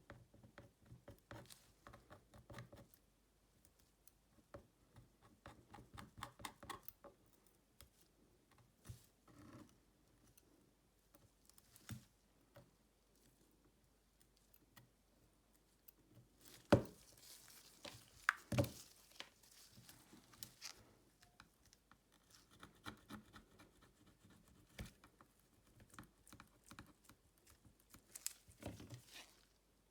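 Small taps, clicks and scratchy scrapes of hand tools and phone parts being handled during a phone back-cover replacement, with two sharper knocks a little past halfway and a brief scraping burst near the end.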